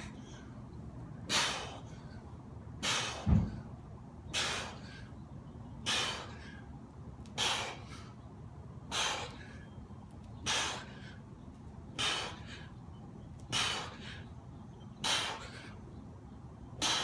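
A man breathing out hard in an even rhythm, one forceful exhalation about every second and a half, as he works through exercise repetitions. A single low thud comes about three seconds in.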